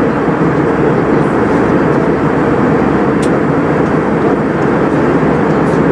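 Steady engine and airflow noise inside the passenger cabin of an Airbus A320 airliner: an even, unbroken rush, heaviest in the low-mid range.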